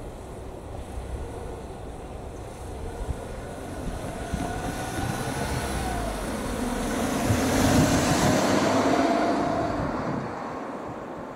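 ČD class 814 RegioNova diesel railcar approaching and running past, growing louder to its loudest about eight seconds in and then fading as it moves away.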